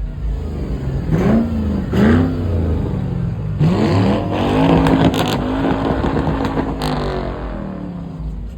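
Car engine revved hard: two quick blips about a second apart, then a longer rev held and wavering for about three seconds, with a few sharp cracks during it.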